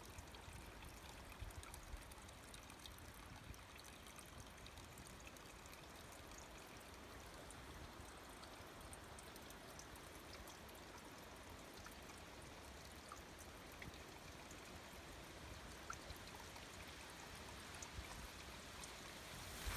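A small creek running faintly and steadily, water trickling over stones.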